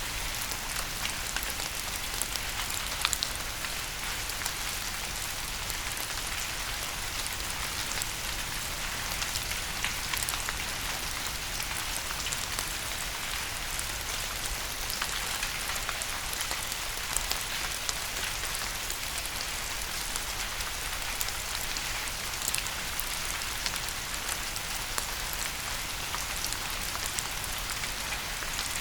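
Steady rain falling, an even hiss of drops with scattered sharper drip hits and a few louder single drops now and then.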